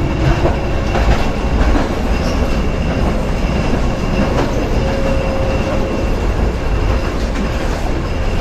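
A badly worn-out old tram running along the track, a steady heavy rumble with scattered clacks from the wheels and a faint steady whine over it.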